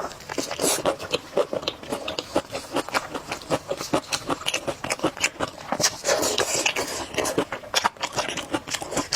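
Close-miked chewing and biting of crunchy fried skewers: a rapid, uneven run of crisp crunches and wet mouth clicks.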